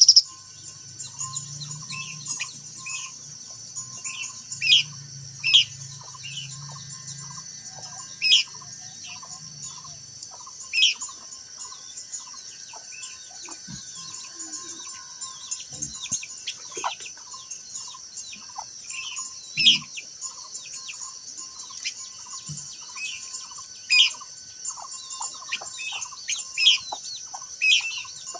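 Small songbirds, minlas, chirping: sharp high calls every second or two mixed with runs of short, lower repeated notes, over a steady high-pitched drone.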